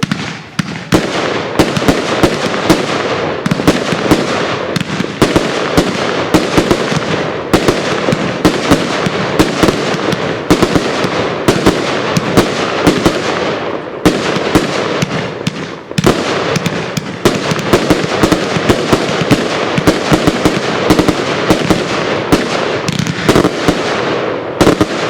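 A 70-shot Thunderflower firework cake firing in rapid succession: a dense, continuous barrage of launch thumps and bursting shells with crackle, red mines to silver tails with booms.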